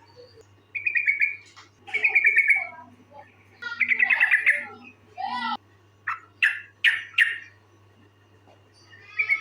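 Yellow-vented bulbul (trucukan) calling: several short bursts of quick bubbling, chattering notes, then a few short sharp calls in quick succession, and another chattering burst near the end.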